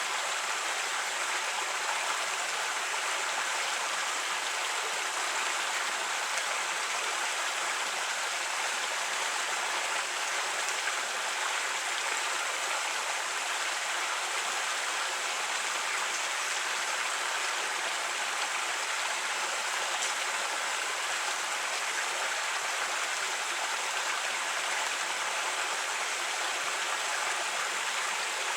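A creek flowing and babbling, a steady rush of running water.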